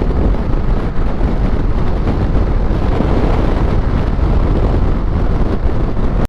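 Wind buffeting the microphone on a motorcycle moving at road speed, over the steady drone of the bike's engine.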